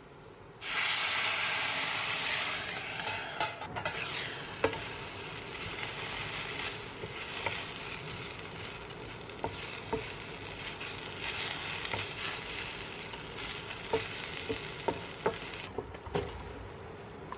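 Food frying in a hot pan: the sizzling starts suddenly under a second in, loudest at first, then settles to a steady sizzle. A utensil stirring in the pan makes light scattered clicks.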